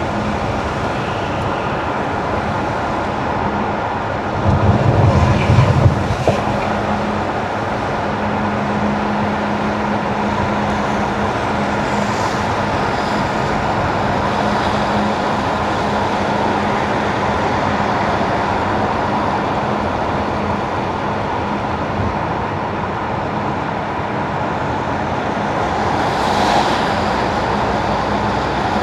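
Steady road noise of a car driving on wet winter asphalt: tyre hiss over a low, even hum. About four and a half seconds in, a louder low rumble lasts under two seconds, and near the end there is a brief swell of hiss.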